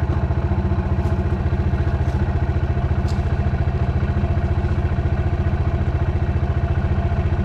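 Dirt bike engine running at a steady, unchanging speed, its exhaust pulses fast and even, with a few faint ticks about once a second early on.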